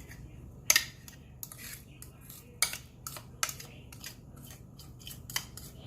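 Kitchen handling sounds while butter is worked over a raw whole chicken by hand: a series of short, sharp, irregular clicks and taps, like a pan or bowl being knocked and handled, the loudest just under a second in.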